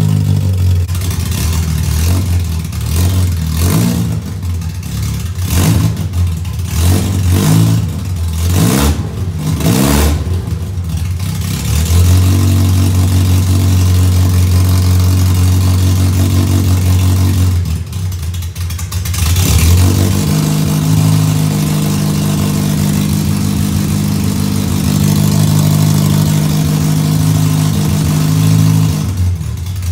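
Freshly built stroker four-cylinder engine of an all-wheel-drive Honda CRX running during its first warm-up on a base break-in map, the throttle worked by hand at the throttle body. The revs rise and fall for the first dozen seconds, then it holds steady, dips briefly, and settles to a steady, higher raised idle.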